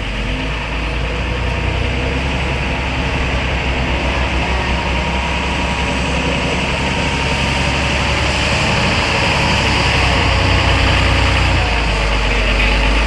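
Heavy truck's diesel engine running close by, a steady deep rumble over a hiss of road noise that slowly swells a little louder.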